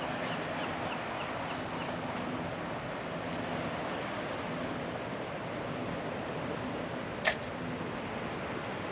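Steady rushing noise, with one sharp click about seven seconds in.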